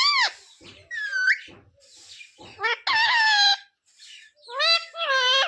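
Pet parrot calling in high-pitched, bending vocalisations, about four separate calls, one of them a short falling whistle.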